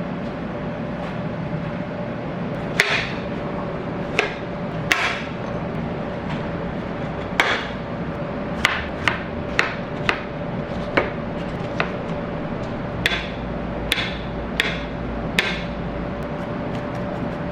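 Irregular sharp knocks and clacks, roughly one a second, some with a short ring, over a steady background hum.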